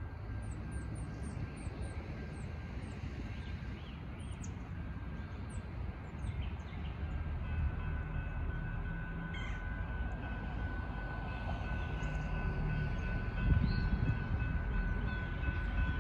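Low rumble of an approaching Norfolk Southern freight train, growing slowly louder, with birds chirping over it in the first few seconds. A steady high tone comes in about halfway and grows stronger.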